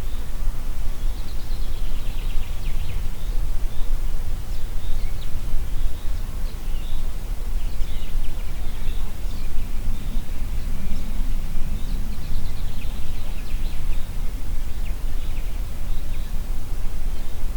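Wind blowing through forest trees, with a steady deep rumble of wind on the microphone. Small birds call throughout with short high chirps and quick trills, coming in loose clusters.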